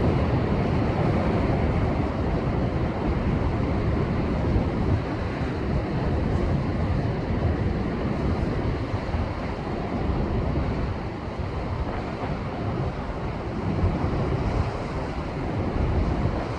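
Heavy post-typhoon Pacific surf crashing and washing over rocks in a continuous low roar. It swells and eases, lowest about two-thirds of the way through and building again near the end, with wind buffeting the microphone.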